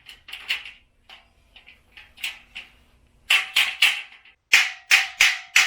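Metal shelf beams being knocked into the slotted uprights of a boltless steel shelf: light taps at first, then a run of sharp strikes about three a second from around the middle, with a faint metallic ring under them.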